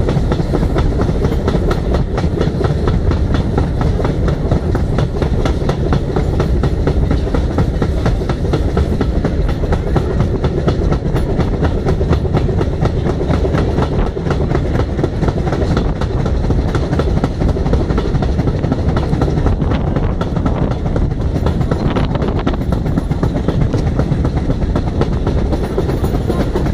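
Passenger carriage of a steam-hauled train running at speed: a steady rattle and clatter of wheels over the rails, with wind rushing across the microphone at the open window.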